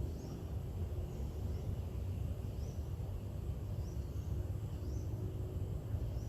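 Outdoor ambience: a bird gives short high chirps about once a second over a steady low rumble.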